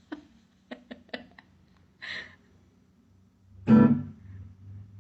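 Scattered short musical notes, plucked-string-like, with a louder ringing note near the end.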